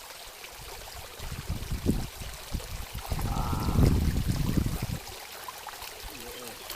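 Water splashing and sloshing in irregular bursts, heaviest in the middle, over a steady trickle: a hooked tilapia thrashing at the surface as it is pulled in.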